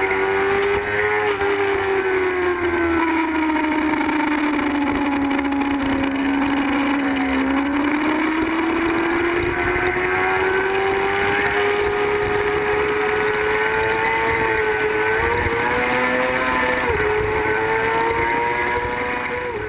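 Sport motorcycle's engine at speed on a racetrack, heard from a camera mounted on the bike with wind rushing over it. The engine note sinks over the first several seconds, then climbs steadily under acceleration. About 17 s in the pitch drops suddenly before rising again, and the sound fades out at the very end.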